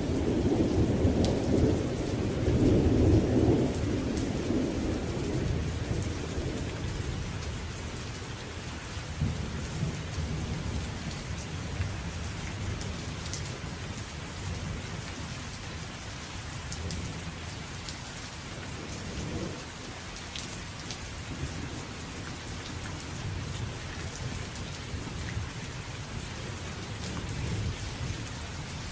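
Thunderstorm: steady rain falling, with a loud roll of thunder at the start that dies away over the first several seconds, and fainter low rumbles later on.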